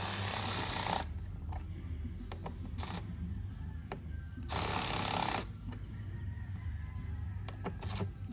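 Cordless power driver run in short bursts of about a second, tightening the worm-drive hose clamps on an air filter housing. Small clicks and taps of metal come between the bursts.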